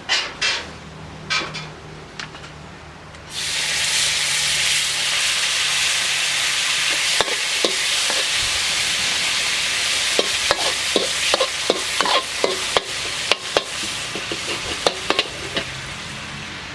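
A few utensil knocks, then about three seconds in food goes into a hot pan and sizzles loudly, frying steadily from then on. Over the frying a spatula scrapes and taps against the pan many times, most densely in the second half.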